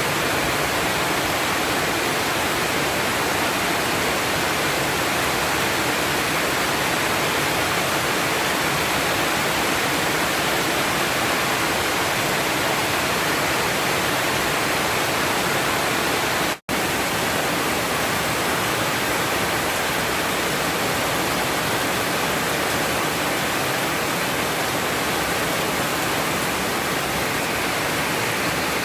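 Heavy storm rain falling, a dense steady hiss, with a momentary break about halfway through.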